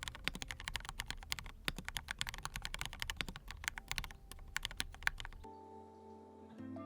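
Fast, continuous typing on a Monstargear Aqua67 mini acrylic custom mechanical keyboard with fully lubricated, low-noise switches: a dense stream of key clacks. About five and a half seconds in the typing stops suddenly and soft mallet-instrument music with held notes takes over.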